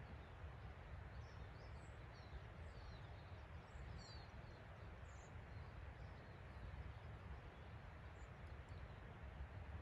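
Quiet forest ambience: a steady low rumble, with faint, short high chirps of small birds scattered through the first half.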